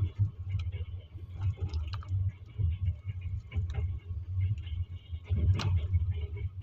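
Double-decker passenger train moving off: a low, uneven rumble with scattered clicks and knocks.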